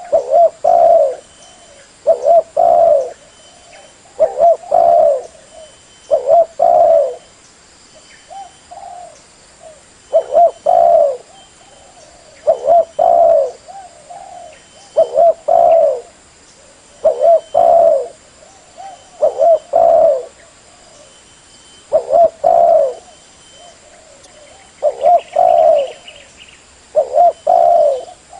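Spotted dove (tekukur) cooing: a phrase of two or three low notes, repeated about every two seconds.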